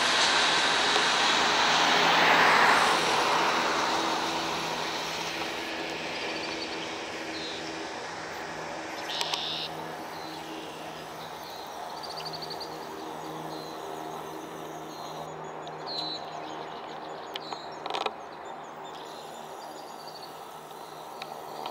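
Covered hopper cars of a loaded grain train rolling past, a steady rush of wheels on rail that is loudest about two seconds in and then fades as the train moves off. After that, birds chirp and trill a few times over a faint steady low hum.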